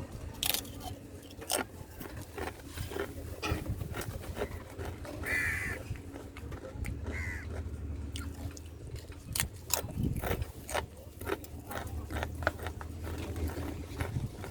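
A crow caws twice, about five seconds in and again about two seconds later, amid many sharp clicks and taps while the crows are being fed.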